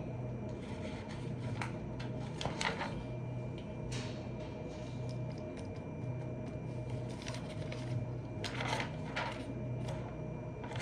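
Occasional light clicks and brief scratchy rustles of small handling noises at a desk, over a steady low hum.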